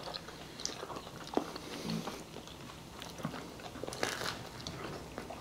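Quiet chewing and biting of a cheesy chicken Alfredo pizza slice, with small wet mouth clicks and a sharper one about four seconds in.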